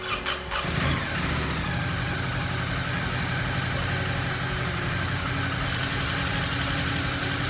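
Ducati Scrambler motorcycle engine idling steadily; the sound settles within the first second and then runs evenly.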